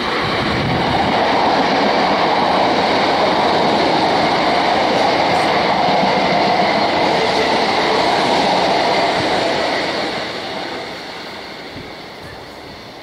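Class 455 electric multiple unit passing at speed close by: a loud, steady rush of train noise that fades away from about ten seconds in as the train draws off down the line.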